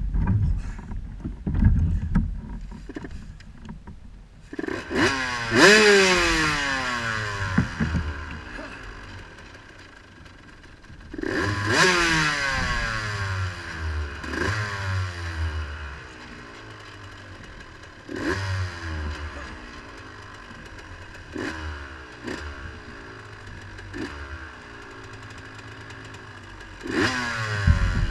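Off-road vehicle engine being blipped repeatedly, about six times: each blip revs up sharply and then winds down in a falling whine, the first two the loudest. Heavy low rumbling and thumps, like wind on the microphone, fill the first few seconds and come back near the end.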